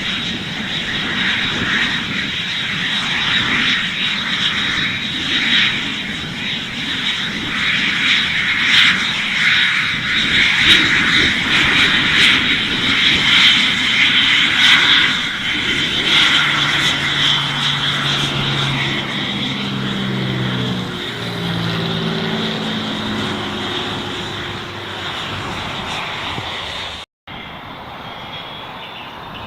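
Aircraft engine noise, swelling to its loudest around the middle and then easing off, with steady low hums that step in pitch during the second half. The sound cuts out for an instant near the end.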